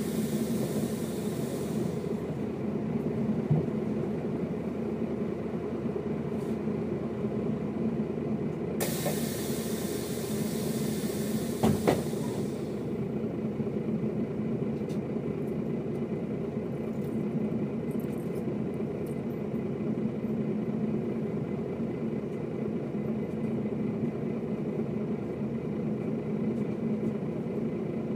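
Mercedes-Benz O407 bus's diesel engine running with a steady drone. A hiss is heard at the start, fading out after about two seconds, and comes back suddenly about nine seconds in for some three seconds. A sharp knock sounds about twelve seconds in.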